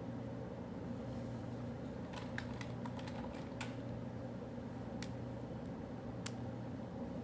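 Quiet study-room ambience: a steady low machine hum, like ventilation, with a handful of light, scattered clicks and taps from about two seconds in, like keys or a pen on a desk.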